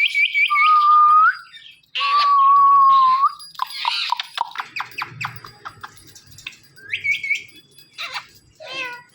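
Ringneck parrot whistling and chattering: quick high chirps, two long steady whistled notes, the second held over a second, then rapid chatter and short calls.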